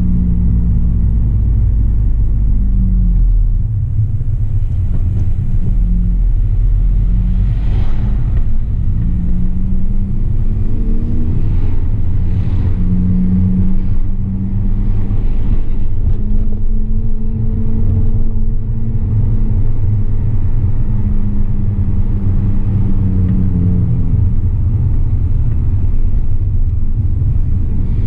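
Honda Civic Type R FN2's 2.0-litre i-VTEC four-cylinder, heard from inside the cabin, running without its HKS induction kit through a 3-inch TDI North exhaust. A low drone rises and falls in pitch as the car pulls away and eases off in town traffic, holds fairly steady through the middle, and drops near the end.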